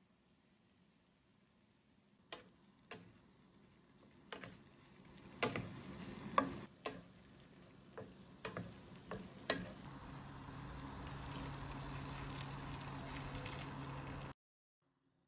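Meat, peppers and onion frying in butter in a pan, sizzling, while a wooden spatula stirs and knocks against the pan a dozen or so times in the first ten seconds. A steadier, louder hiss follows in the last few seconds as water goes into the hot pan, and then cuts off suddenly.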